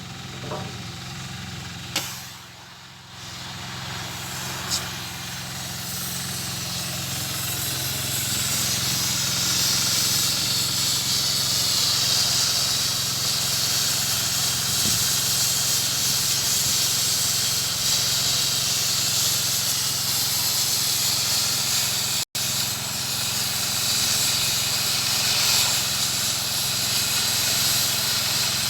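Steady hiss that builds over the first few seconds, over a low steady engine hum, as from machinery running at a barge repair site.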